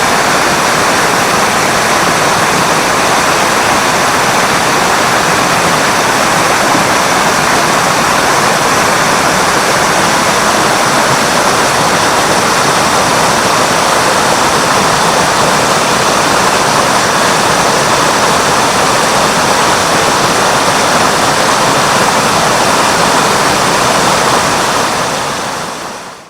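Steady rush of falling water from a spring-fed waterfall, the Mototaki Fukuryūsui. It fades out near the end.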